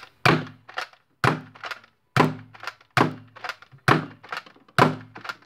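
Nerf Hammershot blaster with a 3D-printed seven-shot cylinder sealed with hot glue, being fired repeatedly. There are six sharp thunks, about one a second, with a lighter click between each pair of shots.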